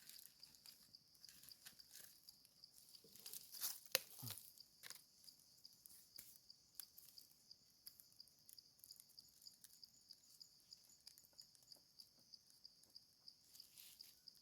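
Faint, steady high insect trill pulsing about four times a second. A few sharp crackles and knocks fall in the first few seconds, the loudest about four seconds in.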